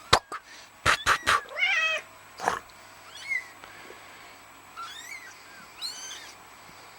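Two-week-old kittens mewing, a series of short, thin, high-pitched cries that bend up and down. A few sharp knocks come in the first second and a half and are louder than the mews.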